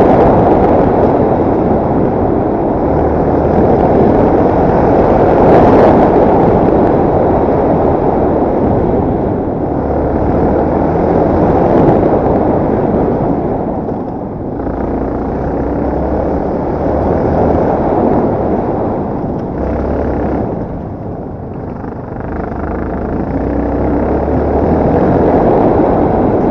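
Yamaha TT250R's single-cylinder four-stroke engine running while the bike is ridden, buried in heavy wind rumble on the microphone. The noise swells and falls back several times.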